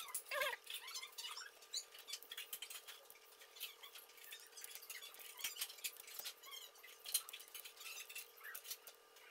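Irregular light clicks and taps from handling a netbook's parts during keyboard repair, with a few short squeaks in the first second or so.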